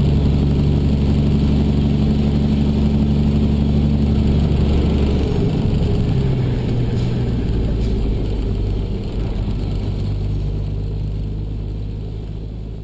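Car engine and road noise running steadily; the engine note shifts lower about five seconds in, and the sound fades near the end.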